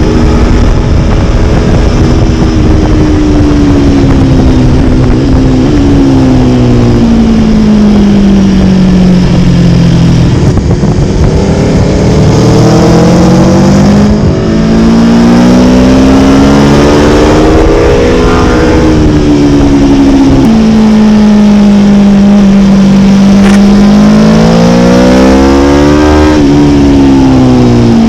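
Motorcycle engine at speed, its pitch climbing as it accelerates and sinking as it slows several times over, with a sudden drop about twenty seconds in as it shifts up. Steady rushing noise runs underneath.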